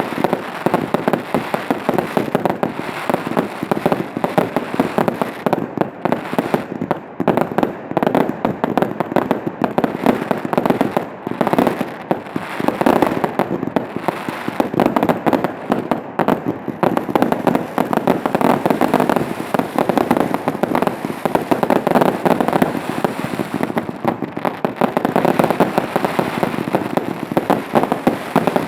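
Professional fireworks display: a dense, unbroken run of rapid bangs and crackling shells with no pauses.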